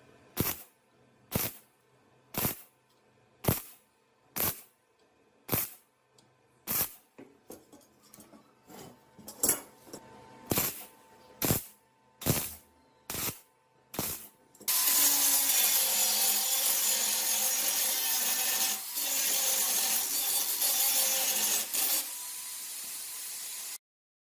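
Workshop tool work: sharp knocks about once a second for most of the first half, then a loud steady hissing noise that drops a little and cuts off suddenly near the end.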